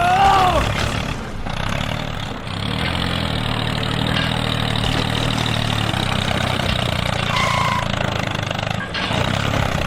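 A small engine running steadily, with a short gliding pitched sound right at the start.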